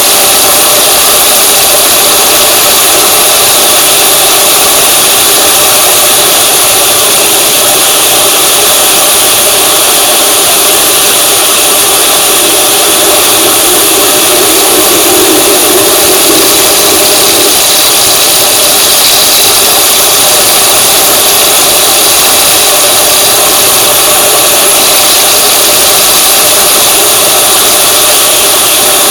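Steady vehicle engine and road noise from a moving vehicle, loud and unchanging, with a brief swell in the lower tones about halfway through.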